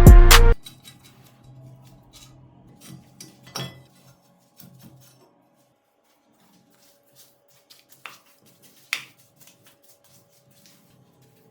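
Small metal clinks and taps, like hand tools and metal parts being picked up and set down, with a sharper knock a few seconds in and two more about two-thirds of the way through. Loud music cuts off at the very start.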